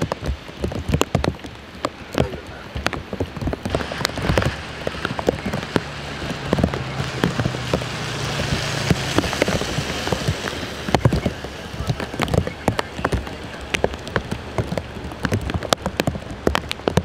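Rain falling on wet pavement and nearby surfaces: a steady hiss broken by many sharp, irregular taps of drops. A faint low hum runs under it for several seconds in the middle.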